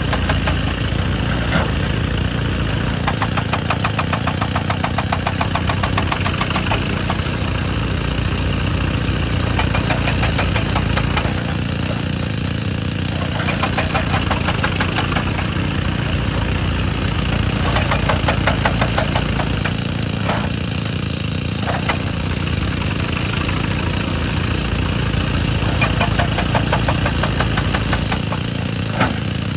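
Excavator-mounted hydraulic rock breaker hammering hard rock in rapid blows over the machine's steady engine. The hammering pauses briefly about a third of the way through, about two-thirds through, and again near the end, while the engine runs on.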